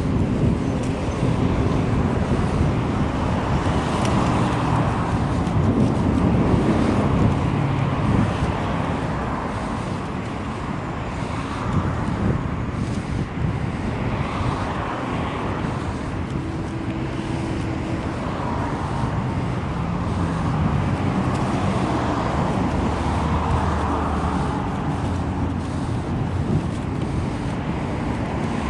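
Steady road traffic noise, with car engines running and passing, heard while riding a bicycle along the road.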